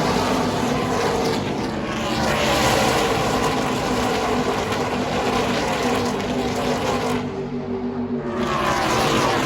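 NASCAR truck-series race trucks' V8 engines running at racing speed as the field passes, the pitch sweeping as each truck goes by. The heaviest pass comes about two seconds in and another near the end, with a brief lull between them.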